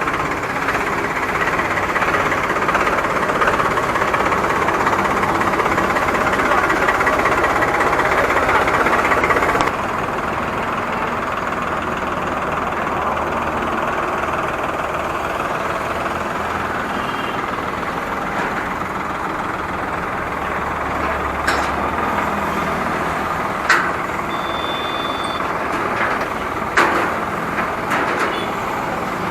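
A tractor's diesel engine running steadily. It is louder for the first ten seconds, then drops suddenly to a lower level. A few sharp metallic knocks come near the end.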